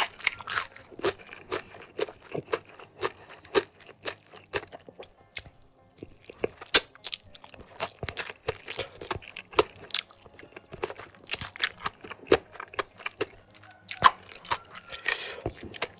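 Close-miked chewing of crispy fried chicken: a rapid, irregular run of short crunches and wet mouth sounds, with one sharp, louder crunch about seven seconds in.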